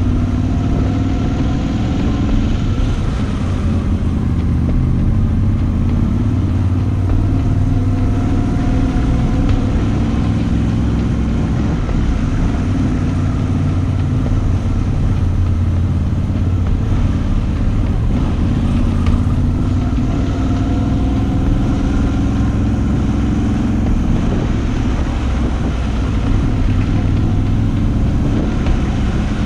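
Moto Guzzi V85TT's air-cooled transverse V-twin engine running while the motorcycle is ridden, its pitch rising and falling several times as the rider accelerates and eases off.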